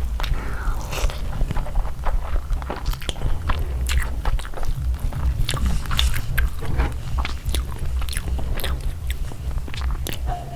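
Close-miked eating: irregular biting and chewing with wet mouth clicks and some crunches, over a steady low hum.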